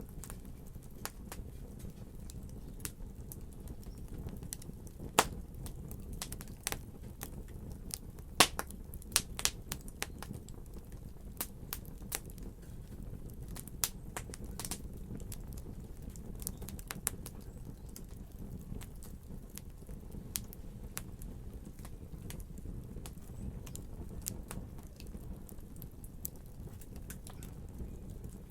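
Wood fire crackling in a fireplace: irregular sharp pops and snaps over a steady low rumble of the flames, with a cluster of louder pops about eight to ten seconds in.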